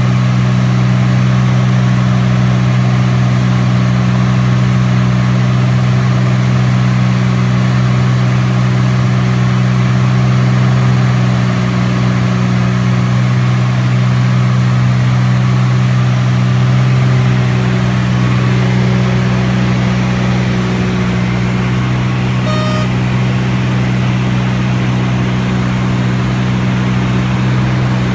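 T-34 Mentor's piston engine and propeller running steadily as a constant, even drone, easing slightly in level a little past halfway.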